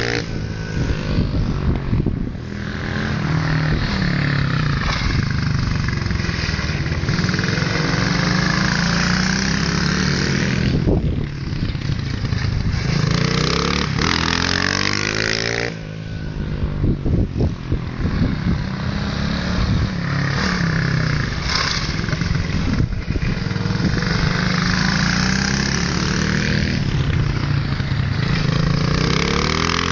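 Motorcycles lapping a car park, their engines revving up and falling back again and again as they accelerate, brake and pass close by.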